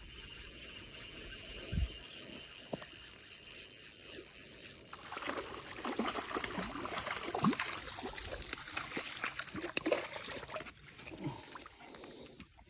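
Creek water trickling and splashing, with irregular splashes over the middle of the stretch, under a steady high-pitched whine that stops about seven and a half seconds in.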